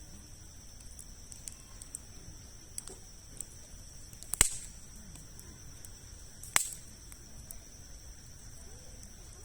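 Campfire of large logs crackling, with scattered small ticks and two sharp, loud pops, one a little under halfway through and one about two seconds later. A steady high insect trill runs underneath.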